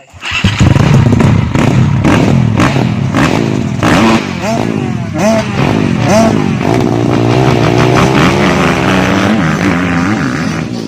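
Grasstrack motorcycle engine starting up loudly and revving, its pitch rising and falling as the bike is ridden, then running more steadily and easing off near the end.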